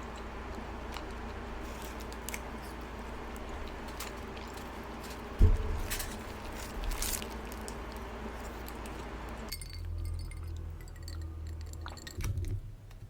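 Small clicks and clinks of food packaging and tableware being handled on a table over a steady room hum, with one heavy thump about five seconds in. The background hum drops out abruptly about nine and a half seconds in.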